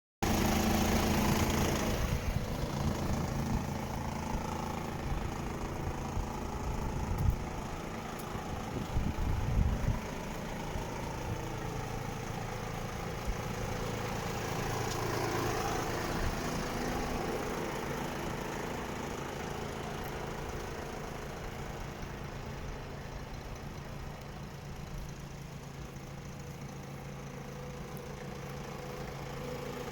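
Volvo FE 250.18 truck's diesel engine idling steadily, with a few louder low thumps a quarter of the way in.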